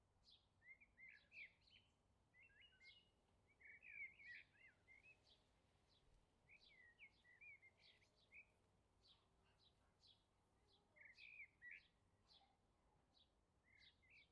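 Faint birdsong: repeated short high chirps, with quick twittering phrases every few seconds.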